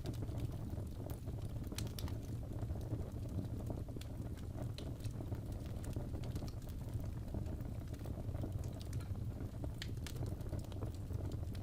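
Wood fire burning in a fireplace: a steady low rumble of the flames, with scattered sharp crackles and pops at irregular moments.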